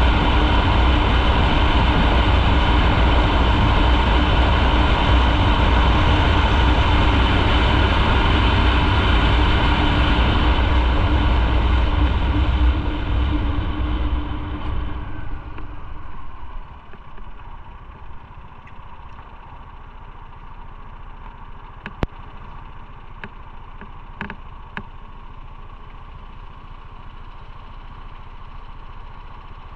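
Motorcycle riding at speed, its engine running steadily under loud road and wind noise, then slowing so that the noise fades away over a few seconds, about halfway through, and the engine settles to a quiet idle. A few short clicks come during the idle.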